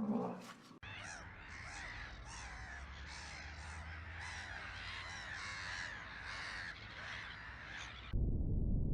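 A flock of birds calling together, many short overlapping calls at once, for about seven seconds. It starts abruptly after the tail end of a deep roar and cuts off suddenly near the end into a low rumbling noise.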